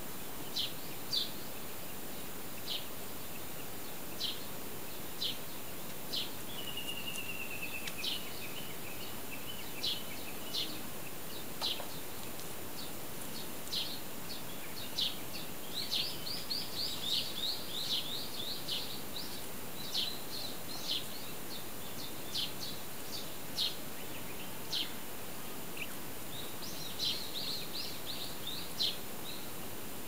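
Wild birds chirping: short, sharp calls about once a second over a steady background hiss. A quick falling trill comes about seven seconds in, and fast runs of chirps come around sixteen to nineteen seconds and again near the end.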